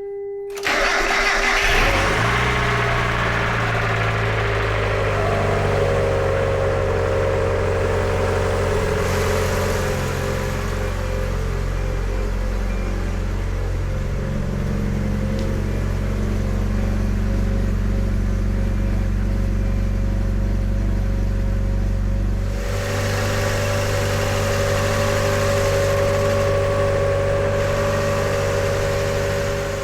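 1993 Mazda Miata's 1.6-litre four-cylinder engine starting from cold, catching about a second in and then idling steadily. The sound changes abruptly about three quarters of the way through.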